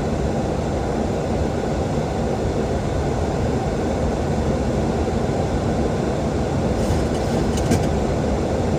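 Steady flight-deck noise of a Boeing 737-800 in descent: an even rushing of airflow and engine and air-conditioning noise, heavy in the low end, with a few faint clicks about seven to eight seconds in.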